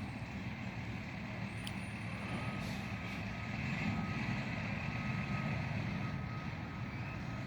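Garbage truck engine running steadily, with its reversing alarm beeping faintly in a repeating on-off pattern from about two seconds in.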